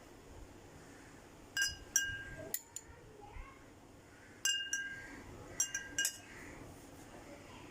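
A metal spoon clinking against a drinking glass about seven times in uneven taps, each with a short ring, as blended beetroot paste is spooned into the glass.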